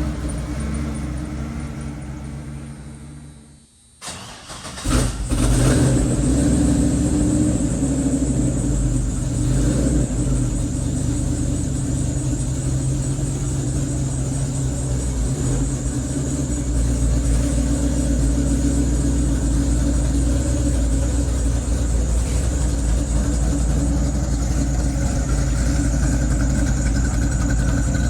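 A 6.0-litre LS truck V8 running and fading out, then cranked by the starter and firing up about five seconds in, settling into a steady idle.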